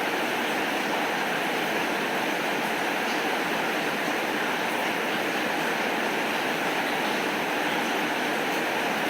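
Heavy rain falling steadily, an even hiss with no thunder or other events.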